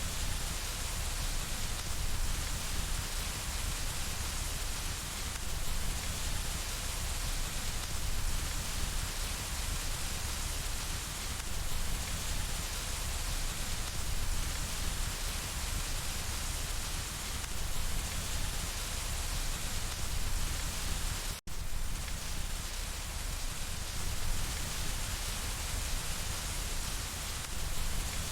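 Steady rain pattering on window glass, an even rushing hiss with no distinct crackles standing out. The sound cuts out for a split second about three quarters of the way through, then resumes unchanged.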